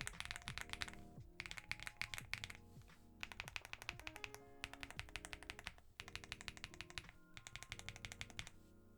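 Typing on a mechanical keyboard fitted with Jerzzi Lotus V2 linear switches in a Record Alice V2 board: quick runs of key clicks in bursts with brief pauses between them. Soft background music runs underneath.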